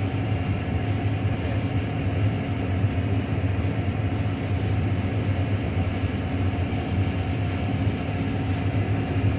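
Heavy farm harvest machinery running steadily at constant speed: an even, unbroken engine drone with a low hum.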